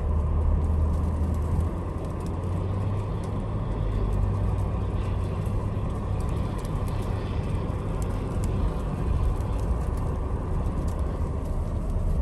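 Cabin sound of a 2021 Ford Explorer ST driving slowly on snow: a steady low engine and road drone, heaviest in the first two seconds. Scattered light ticks of ice and snow hit the body.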